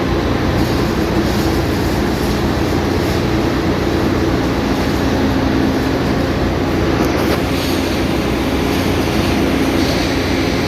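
Ship's engine-room machinery running: a loud, steady drone with a constant low hum.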